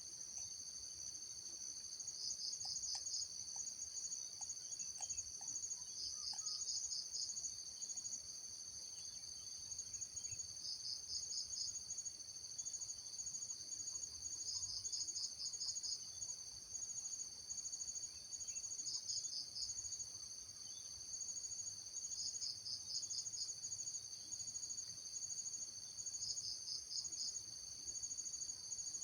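Insect chorus: a continuous high-pitched buzzing, with a short pulsed trill repeating about every four seconds.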